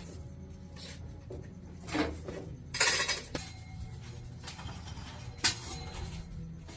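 Metal objects clinking and scraping a few times, the loudest cluster about three seconds in, over a steady low hum.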